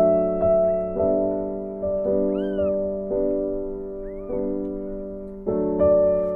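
Piano background music, chords struck about once a second, with a kitten meowing twice in the middle, two short, thin, high calls that rise and fall.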